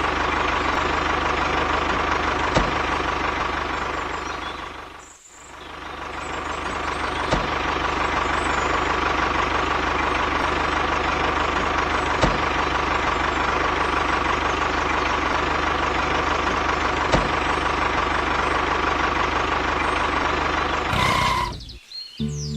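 Tractor engine running steadily with a steady whine in it. It dips briefly about five seconds in and cuts off about a second before the end.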